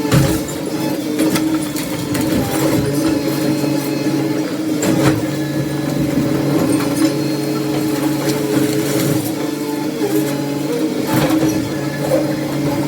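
Heavy demolition machinery running with a steady engine hum, with several sharp knocks and crashes of debris.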